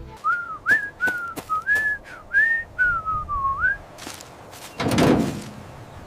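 A short whistled tune of several wavering notes, with light clicks between them, followed about five seconds in by a brief noisy thud.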